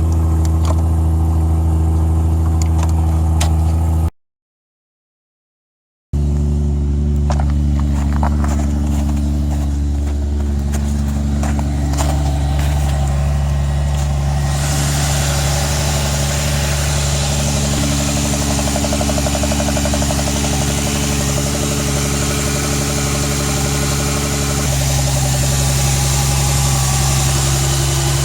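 Turbocharged BMW M52B28TU 2.8-litre straight-six idling steadily just after a hard start, with a couple of seconds of dead silence about four seconds in. Partway through, a hiss joins the steady engine note.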